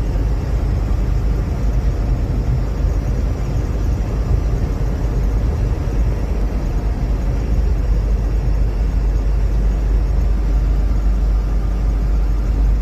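Steady low rumble of a vehicle being driven on a highway, heard from inside the cab: engine and tyre noise holding an even level.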